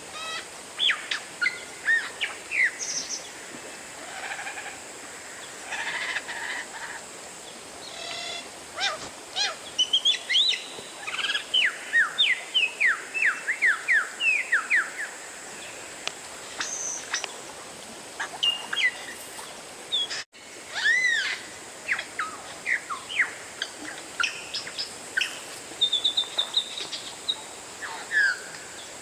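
Oriental magpie-robin (kacer) singing a rapid, varied run of whistles, chirps and up-and-down slurred notes. The recording drops out for an instant about twenty seconds in.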